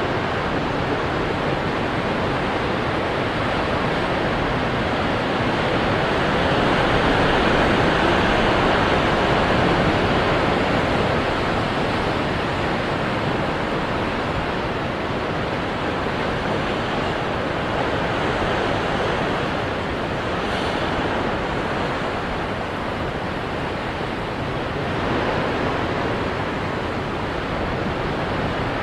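Ocean waves washing onto rocks, a continuous rushing surf that swells louder around a quarter of the way in and again briefly near the end.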